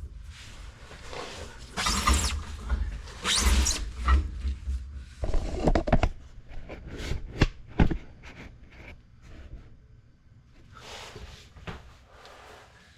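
Handling noises while a truck's spare tire is being refitted: two rustling scrapes, then a run of sharp clicks and knocks, with fainter scrapes near the end.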